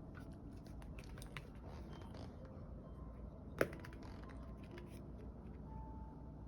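A Maltipoo puppy gnawing a wooden stick held in its paws: a run of small clicks and cracks, with one sharp knock about three and a half seconds in.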